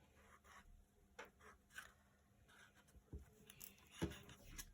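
Near silence with a few faint, scattered taps and scratches of felt-tip markers and paper being handled on a table.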